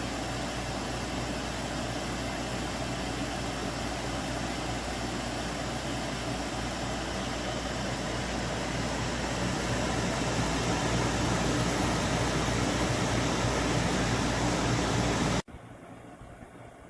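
Portable air conditioner running: a steady rush of air from the fan over a low hum, a little louder about ten seconds in, stopping abruptly near the end.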